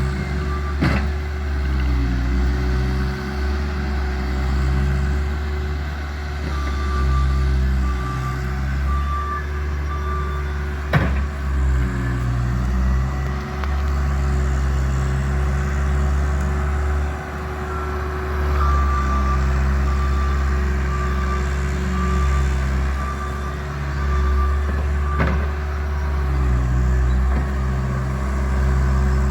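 Bobcat loader's engine running under work, its pitch rising and falling with the load, while its backup alarm beeps in two runs of steady beeps. Three sharp knocks stand out, about a second in, about a third of the way through, and near the end.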